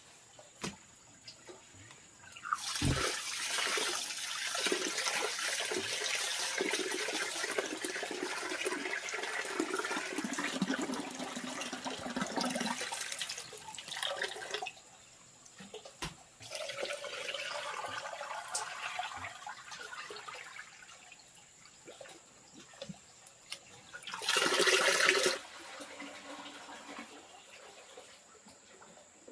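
Water running and splashing in long stretches, as if poured or sloshed in a basin, with a short loud rush of water near the end.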